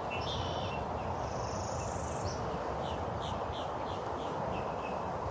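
Wild birds calling over steady outdoor background noise: a short trill, then a buzzy call, then a run of short falling notes at about three a second.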